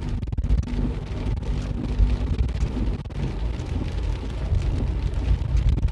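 Pickup truck driving in heavy rain, heard from inside the cab: a low engine and road rumble with rain hitting the truck. A steady hum stops about three seconds in.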